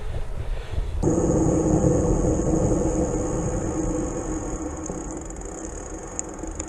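Bicycle riding noise: tyre rumble with wind on the microphone. About a second in the sound changes abruptly and a high, steady whine joins in, then everything slowly grows quieter.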